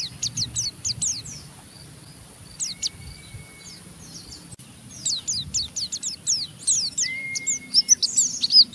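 White-eye (pleci) giving its rapid, scratchy 'ngeriwik' chatter: runs of quick high down-slurred notes, pausing about a second and a half in, then a denser, louder run from about halfway.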